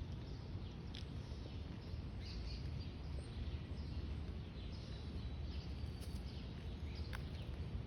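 Outdoor ambience: small birds chirping, many short high falling calls scattered through, over a steady low rumble.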